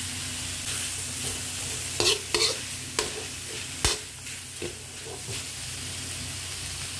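Shredded chicken sizzling as it is sautéed in oil in a large aluminium wok, with a spatula scraping and knocking against the pan a few times, mostly between about two and four seconds in, as the chicken is stirred.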